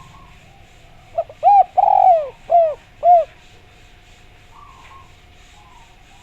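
Spotted dove (derkuku) giving one cooing phrase of five arched notes about a second in, the middle note the longest.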